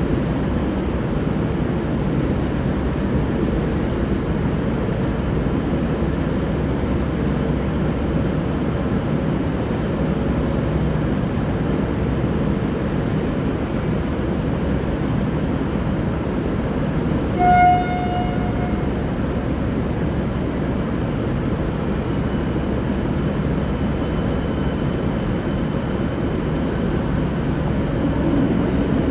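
Train rumbling steadily, with one short horn toot about two-thirds of the way through.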